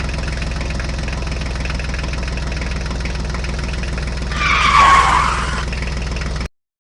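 Small engine of a miniature DIY tractor running steadily, with a brief louder rasping, scraping noise about four and a half seconds in; the sound cuts off suddenly near the end.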